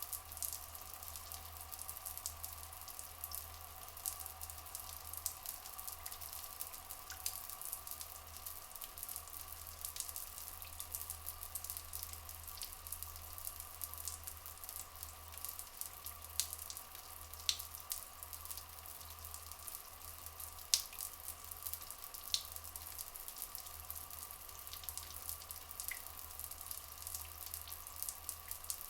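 Flowing water trickling and dripping steadily, a dense patter of small splashes over a low rumble, with a few sharper drips standing out near the middle.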